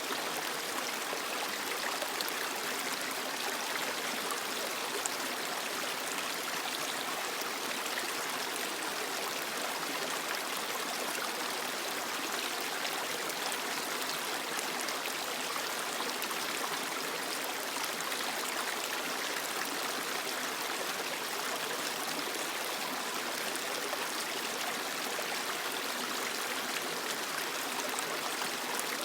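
Creek water flowing and babbling over rocks, a steady rushing hiss with fine splashing.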